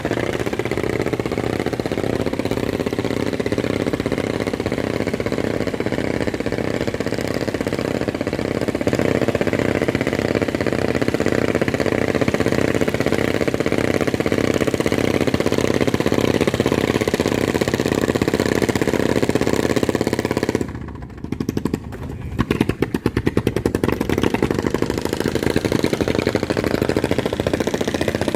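Boat engine running steadily. A little past three quarters of the way through it drops away sharply for a second or two, then picks up again with an uneven pulsing before settling back to a steady run.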